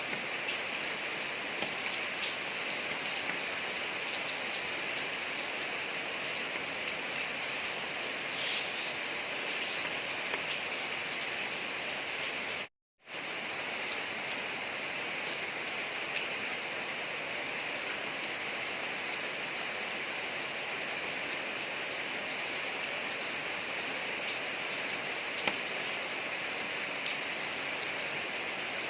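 Steady rain falling on a street: an even hiss with scattered faint drop ticks. About halfway through, the sound drops out completely for a split second, then carries on unchanged.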